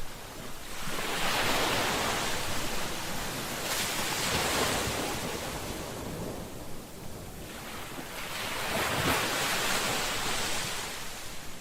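Ocean surf: two waves break and wash in one after the other, each a rushing hiss that swells and fades over several seconds.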